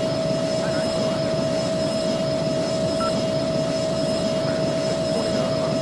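Embraer jet's turbofan engines running steadily at take-off power: a broad, even rumble with a steady whine held over it.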